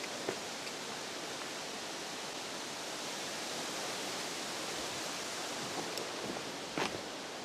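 Steady, even outdoor background hiss with a faint click or two, the clearest near the end.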